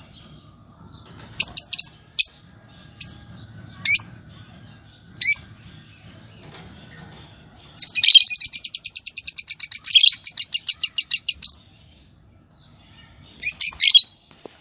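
Pet lovebirds calling: a few short, shrill chirps, then a rapid chattering run of about ten notes a second lasting nearly four seconds, and another burst of chirps near the end.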